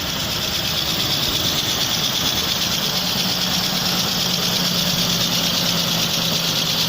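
Nissan Pathfinder's VG33 3.3-litre petrol V6 idling steadily.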